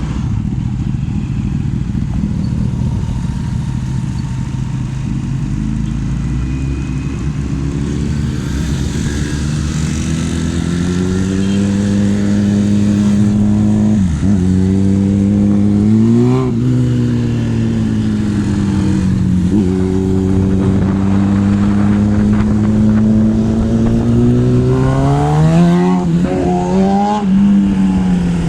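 Kawasaki ZX-10RR's inline-four engine running under way. Its pitch climbs slowly and then holds with gentle swells, dips sharply twice about halfway through, and rises and falls quickly several times near the end.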